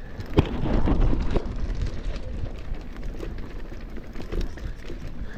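Mountain bike riding over a rough dirt trail: tyres rolling and crunching over dirt and roots, the bike rattling with many small knocks, and wind buffeting the microphone. Loudest from about half a second to a second and a half in.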